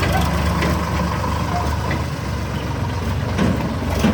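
Sonalika RX60 tractor's diesel engine running steadily at a low rumble.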